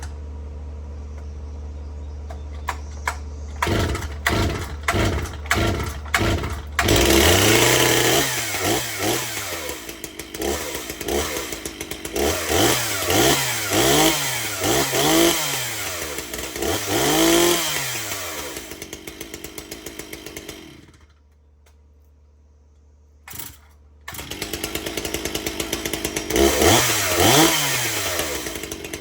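Husqvarna 240 two-stroke chainsaw running after a start. It idles steadily, then is revved up and down over and over with the throttle. About twenty seconds in it goes quiet for a couple of seconds, then is running and being revved again near the end.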